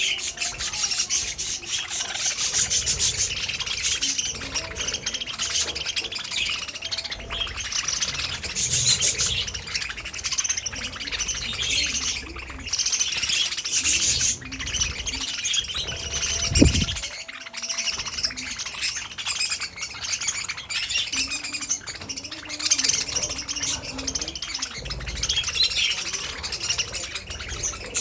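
Budgerigars chirping and warbling without pause, busy twittering chatter. About halfway through there is one brief low thud.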